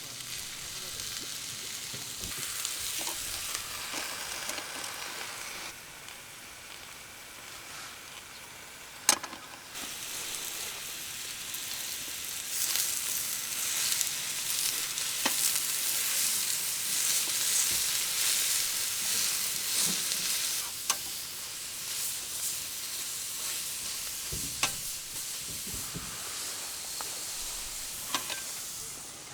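Food sizzling in a hot pan, with scattered sharp pops. The sizzle dies down about six seconds in, then picks up louder a few seconds later.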